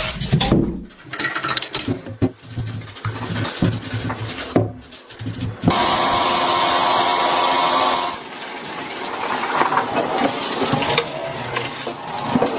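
Restoration workshop noises: scattered knocks and clicks, then a loud steady hiss lasting about two seconds that starts and stops abruptly, followed by rougher working noise.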